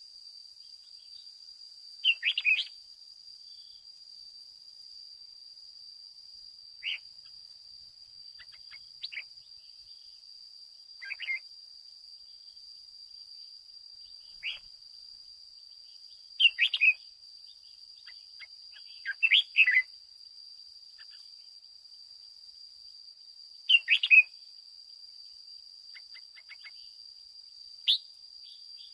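Red-whiskered bulbul singing short chirping phrases every few seconds, about nine in all, over a steady faint high-pitched hum.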